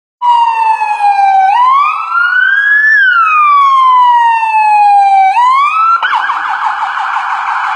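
Ambulance siren wailing in slow rising and falling sweeps, then switching about six seconds in to a fast yelping warble.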